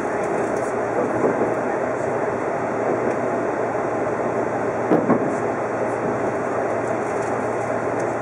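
Odakyu 50000-series VSE Romancecar running over pointwork into a station, heard from inside the front cabin: a steady rumble of wheels on rail with a few clicks over rail joints and a sharper knock about five seconds in.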